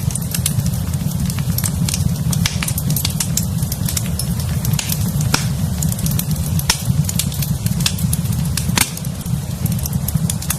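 Wood fire burning in a fireplace: frequent sharp crackles and snaps, a few louder than the rest, over a steady low rumble of the flames.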